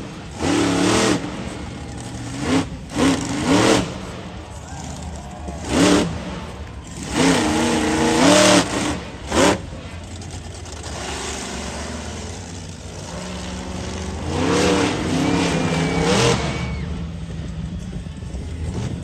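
Monster truck engine revving hard in repeated bursts, its pitch rising and falling, with a steadier lower drone between the revs.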